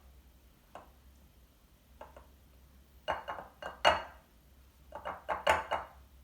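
Kitchen tongs clicking and clinking against a bowl while handling chicken wings: a few single clicks, then two quick bursts of clatter about three and five seconds in.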